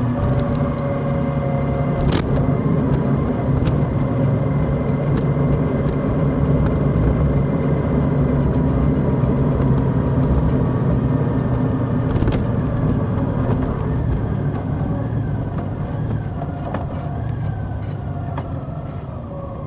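Large motorcycle engine running steadily while riding, with rushing wind noise over it; the engine note and loudness ease off over the last few seconds as it slows.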